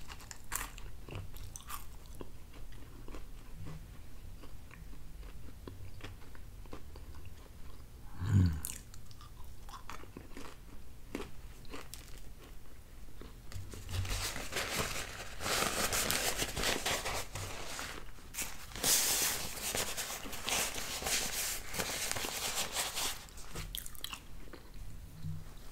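Close-up chewing of a mouthful of pizza, with soft crunching and mouth sounds. About halfway through the crunching grows louder and denser for several seconds, then eases off.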